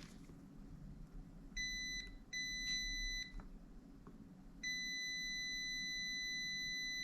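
A multimeter's continuity beeper sounds a steady high beep three times, the last one held for nearly three seconds, as the probes touch a power transistor's leads. The continuous beep signals a short: the transistor is shorted.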